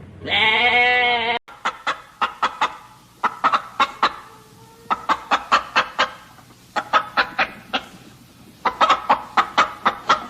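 A goat's bleat ends in the first second and a half, then a chicken clucks in five quick bouts of short sharp calls, several a second.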